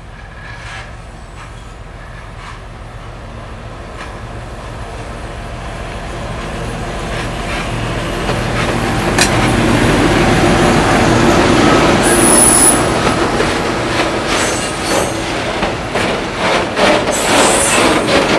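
M62 diesel locomotive's two-stroke V12 engine running steadily as the train draws near, growing louder over about ten seconds. About twelve seconds in there is a brief high wheel squeal, then wheels clatter over rail joints near the end.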